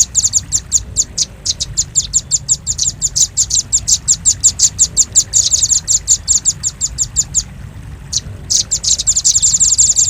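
Velvet-fronted nuthatch calling: a rapid series of sharp, high chips, about six a second, breaking off for about a second near the end and then resuming in a faster run.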